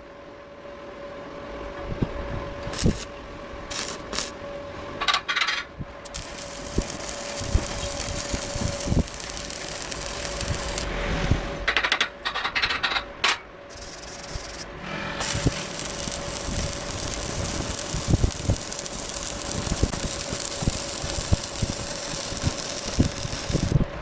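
Electric arc welding on steel: the arc's crackling hiss in two long runs, with short starts and stops between them.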